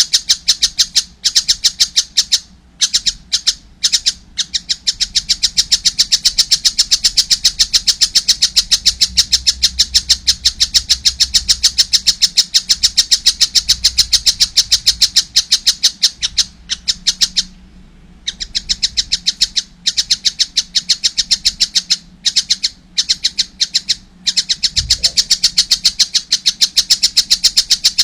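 A young tengkek buto kingfisher calling nonstop: a rapid, high-pitched chatter of short notes, about five a second, broken by a few brief pauses.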